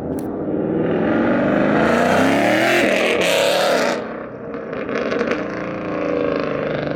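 Car engine accelerating hard, its pitch climbing for a few seconds, then easing off about four seconds in before running on at lower revs.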